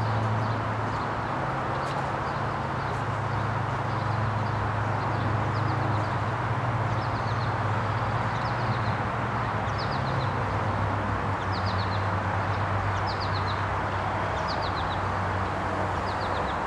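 A bird repeating a short, high run of quick notes about every second and a half, over a steady low hum and background rumble.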